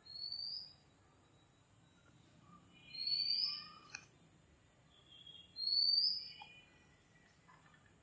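A bird calling: three loud rising whistled notes, about three seconds apart, with fainter chirps between them. A steady high hiss runs underneath, and there is one sharp click near the middle.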